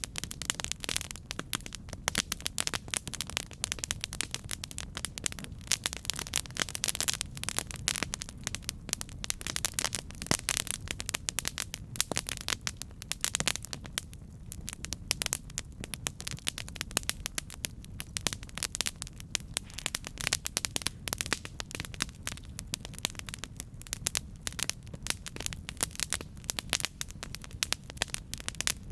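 Campfire burning, a dense, irregular crackling and popping of wood over a steady low rumble of the flames.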